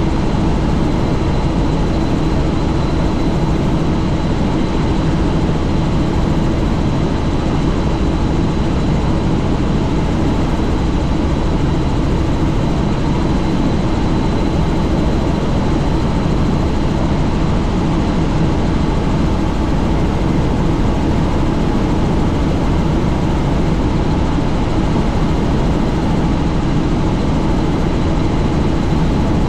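Helicopter in flight, heard from inside the cabin with the doors off: a loud, steady drone of rotor and engine with a thin high whine over it.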